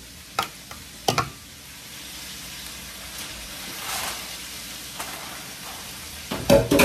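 Chicken frying in hot oil, a steady sizzle. Two sharp taps in the first second or so, a knife against a stainless steel bowl, and a louder knock near the end.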